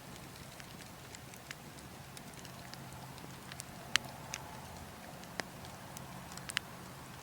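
Burning logs crackling, with scattered sharp pops, the loudest about four seconds in, over a steady low rush of wind.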